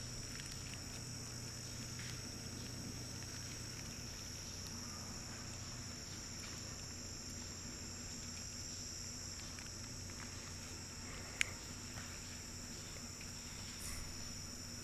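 Faint, steady high-pitched drone of insects, with a single sharp click about two-thirds of the way through.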